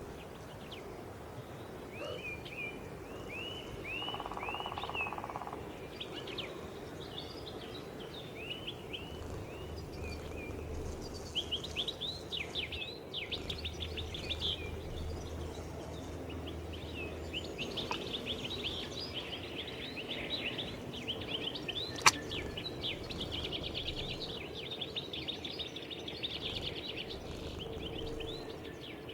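Small songbirds chirping and singing in spring, a run of short repeated chirps and fast trills with several birds overlapping. A single sharp click sounds about three-quarters of the way through.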